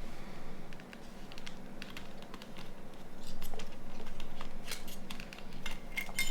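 Small clicks and light scrapes of mobile phone parts and small tools being handled during disassembly. They are sparse at first and come thicker over the last three seconds, over a low steady hum.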